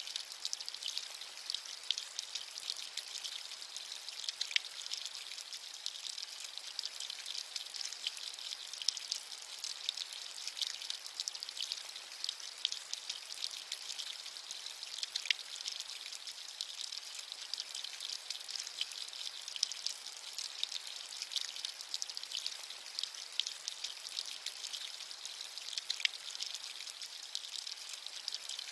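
Steady rain falling, a soft high hiss dotted with many small irregular drop ticks.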